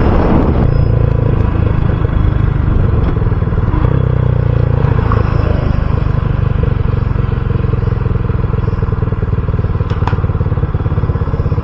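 RUSI Classic 250 motorcycle engine running steadily at low revs. Wind rush on the microphone dies away within the first second, and there is a single sharp click about ten seconds in.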